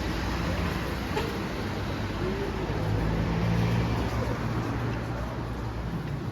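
City street traffic noise with a motor vehicle's engine hum that grows and is loudest about three to four seconds in.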